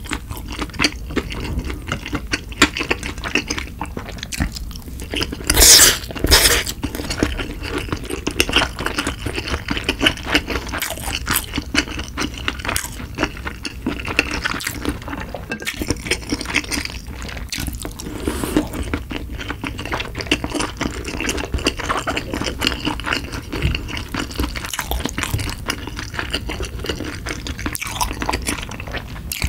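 Close-miked wet chewing and mouth sounds of a person eating sushi: a steady run of small smacks and clicks, with a brief louder burst about six seconds in.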